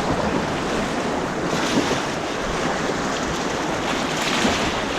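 White-water rapids rushing and splashing close around a kayak, with wind buffeting the microphone. The rush surges louder about a second and a half in and again near the end.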